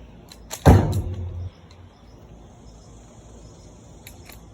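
A crossbow being handled while arrows are loaded. There are a couple of light clicks, then a loud sharp clack that rings briefly and low, and two more light clicks near the end.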